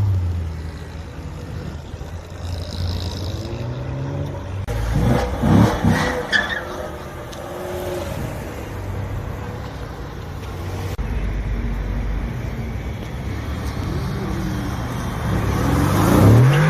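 Supercar engines running and revving in short clips cut together. The pitch rises sharply about five to six seconds in and again near the end.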